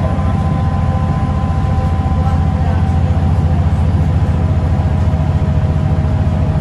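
Scania L94UB bus's five-cylinder diesel engine being worked hard under way: a steady loud, pulsing rumble with a driveline whine over it. The whine dips slightly in pitch about five seconds in.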